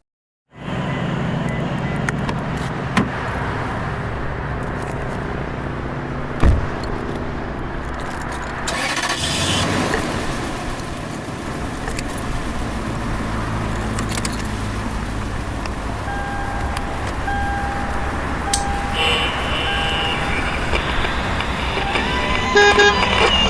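City street soundscape: road traffic rumbling steadily as cars pass. There is a sharp knock about six seconds in, and a repeated two-tone beeping for a few seconds past the middle.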